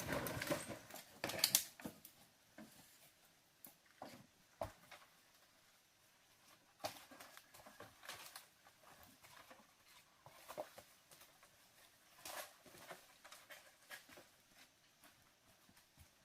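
Scattered soft rustling and light knocks, busiest and loudest in the first two seconds, then only occasional small sounds.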